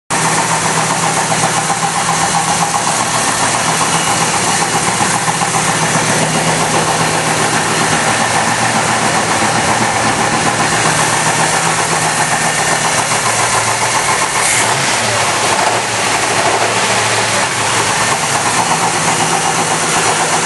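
V8 car engine idling steadily with a fast, even knock running through it: rod knock, the sign of a worn connecting-rod bearing.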